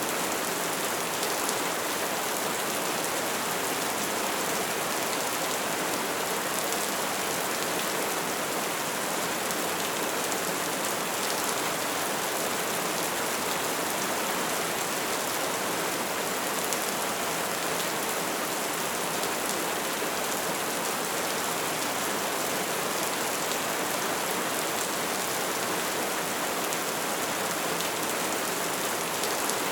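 Wood fire burning with a steady hiss and faint scattered crackles and pops.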